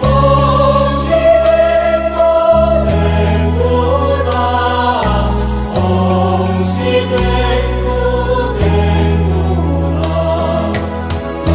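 Buddhist devotional song praising Guanyin: singing voices over sustained bass notes that change every second or two, with a light, regular percussion beat.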